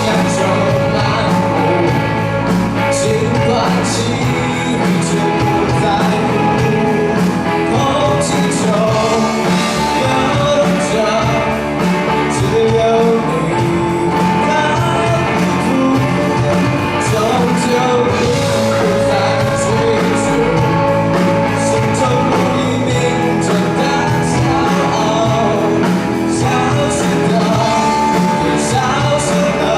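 Rock band playing live with a singer and electric guitar, a steady song with no break.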